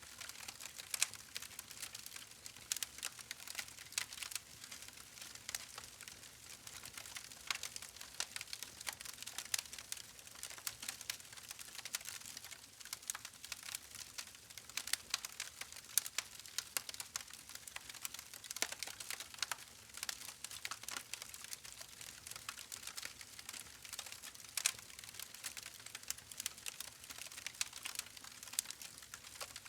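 Wood fire crackling: a steady stream of small sharp pops and snaps over a soft hiss, with an occasional louder pop.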